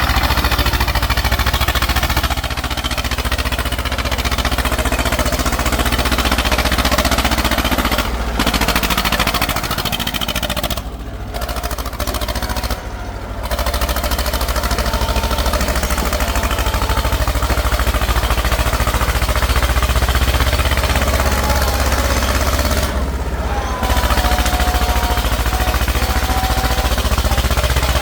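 Tractor engines running steadily, with a few brief drops in level.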